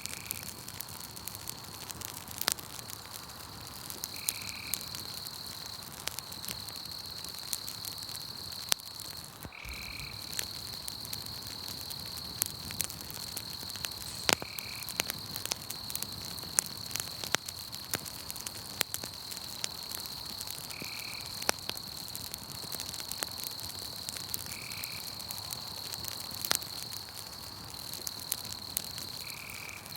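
Wood campfire crackling with sharp, irregular pops, over a steady high trill of night insects that breaks off briefly now and then. A short high call repeats every four to six seconds.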